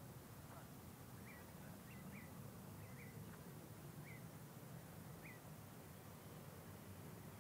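Near silence: a bird gives short, faint chirps about once a second over a low, steady background rumble.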